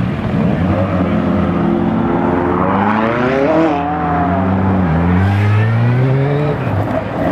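Classic car accelerating away with its engine revving hard: the note climbs, falls away about halfway through, then climbs again.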